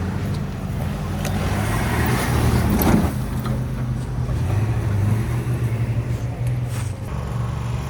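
Engine of a Polaris Ranger side-by-side utility vehicle running steadily under load as it is driven out. A rush of noise builds and peaks about three seconds in.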